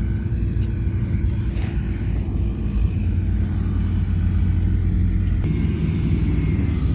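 Heavy diesel construction machinery running steadily with a low engine rumble. About five and a half seconds in, the engine note shifts slightly and a faint higher whine joins it.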